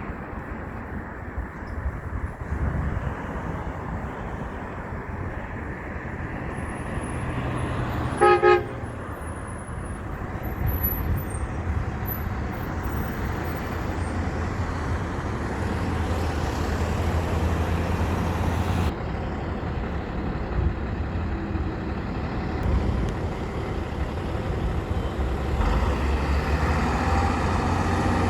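Road traffic with heavy truck engines running past, growing louder near the end. A single short horn toot sounds about eight seconds in.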